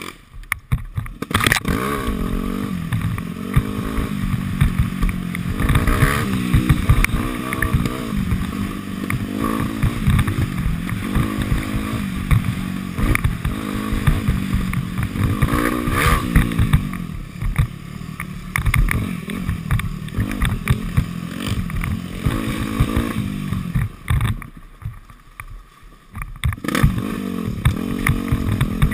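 Dirt bike engine revving up and down continually as the bike is ridden hard over a rough woods trail, with knocks and rattles from the bike over the bumps. The engine note falls away for about two seconds near the end, then picks up again.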